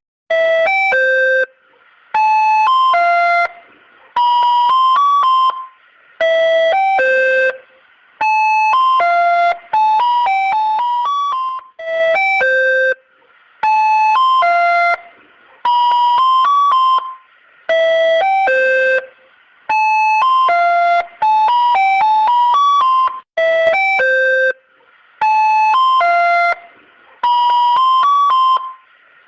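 Wall's roving ice cream cart's electronic jingle: a short chiming melody, about one and a half seconds long, repeated over and over every two seconds or so with a brief gap between plays.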